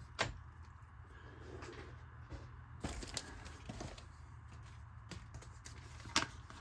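A few light clicks and taps over a low steady hum: parts and packaging being handled. One sharp click comes just after the start, another about three seconds in and another near the end.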